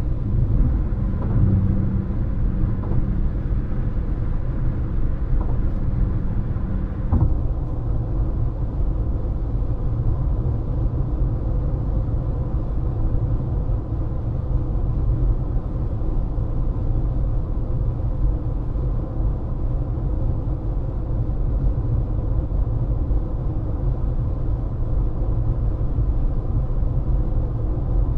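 Car driving at speed, with steady low road and tyre rumble. A low steady hum in the first seven seconds ends with a single click.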